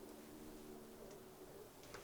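Near silence: room tone with a faint steady hum and a couple of faint ticks, about a second in and near the end.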